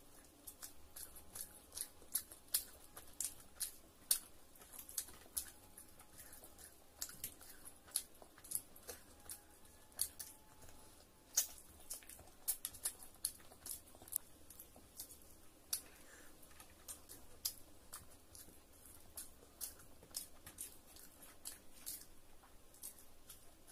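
Eating sounds of a person chewing rice and curry eaten by hand: many short, sharp mouth clicks and smacks, a few each second, coming irregularly.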